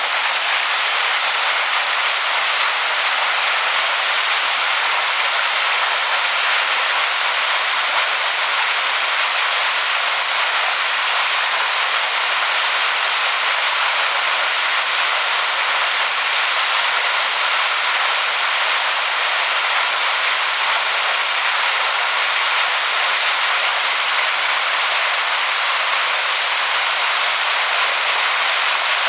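Waterfall pouring onto rocks: a steady, unbroken rushing hiss that stays high in pitch, with little low rumble.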